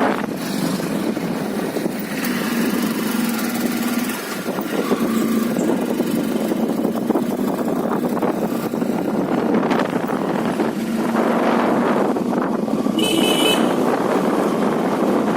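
Motorcycle on the move, its engine running steadily under a continuous rush of wind and road noise. A short horn beep sounds near the end.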